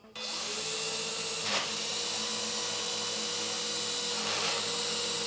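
Silverlit V-Jet Mini's small electric motors and propellers running with a steady high whine, briefly louder about a second and a half in.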